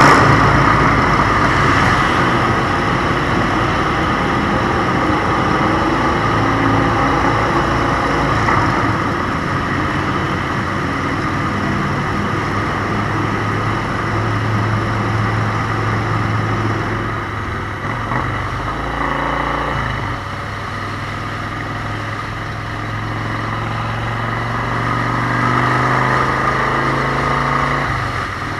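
Motorcycle engine running under way, with wind rush over it. The engine note drops and changes about two-thirds of the way through, as the bike eases off.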